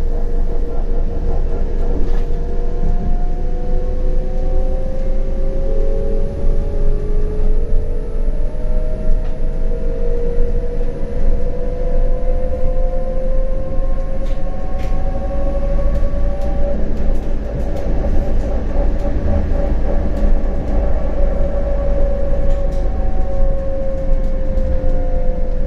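CAF Urbos 100 tram running over rails, a steady rumble under the whine of its electric traction drive. The whine rises slowly in pitch as the tram gathers speed, holds, then eases down a little near the end, with a few light clicks.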